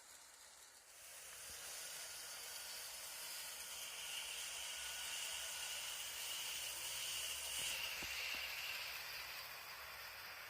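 Model diesel locomotive running on its track: a steady high whine from the small electric motor and gears over a hiss of wheels on the rails, coming in about a second in.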